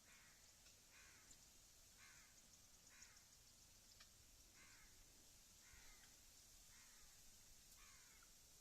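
A bird calling faintly: eight short calls, each falling in pitch, about a second apart.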